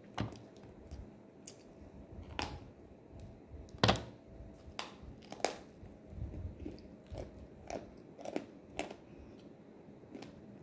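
Biting and chewing of dry, crunchy edible clay (nzu): a dozen or so sharp crisp cracks at irregular intervals with softer chewing between them, the loudest about four seconds in.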